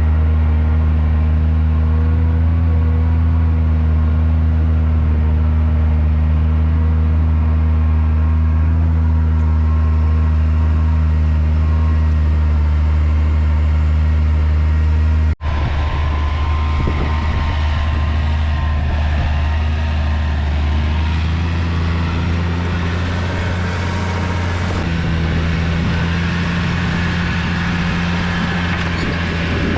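A heavy vehicle engine running at a steady speed. About halfway through, the sound breaks off abruptly and another stretch of engine sound follows. This second part is noisier, and its pitch steps up a little twice.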